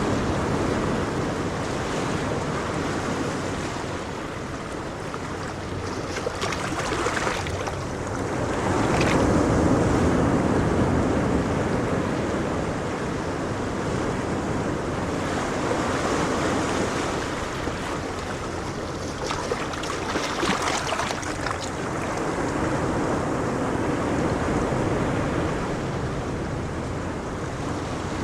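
Ocean waves breaking and washing on a shore, the surf swelling and fading every several seconds, with some wind on the microphone.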